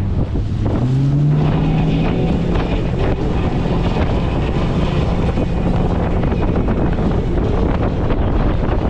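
90 horsepower Evinrude outboard motor on an inflatable tour boat revving up about a second in, then holding a steady pitch as the boat gets under way. Wind buffets the microphone throughout.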